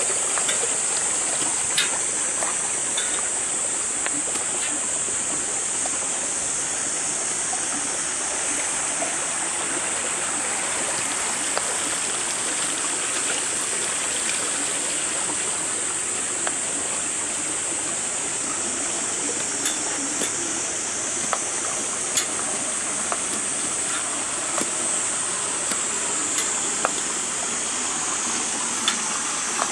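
Steady rush of running water, a bright hiss with no rhythm, dotted with a few faint sharp ticks.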